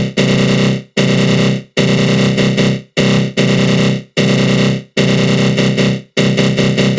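Synthesized 'attack growl' sound effect: a harsh, buzzy synth tone (GMS synth in FL Studio Mobile) swept by a flanger. It repeats in bursts of about a second with short gaps between them, and from about six seconds in the bursts come quicker and shorter.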